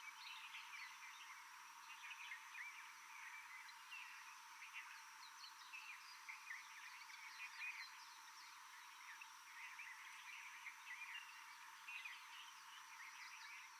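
A faint, dense chorus of frogs: many short, quick high chirps overlapping without a break, over a steady high whine.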